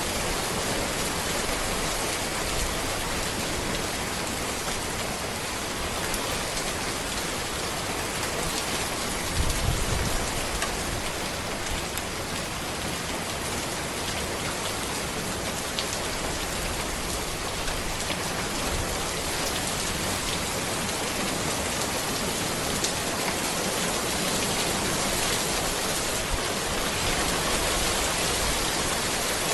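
Steady rain falling on a road, an even hiss with scattered individual drop ticks. A brief low thump about ten seconds in.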